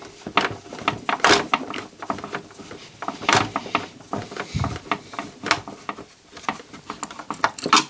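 Irregular clicks and light knocks from handling the CD player's chassis and parts during reassembly, about one or two a second.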